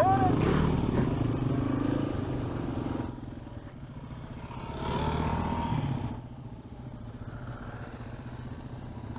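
Yamaha XT225's single-cylinder engine running while riding, easing off about three seconds in, picking up briefly about five seconds in, then running quieter.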